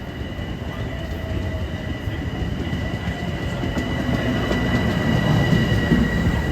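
Long Island Rail Road commuter train passing close by, rumbling and growing louder, with a steady high-pitched tone over the rumble.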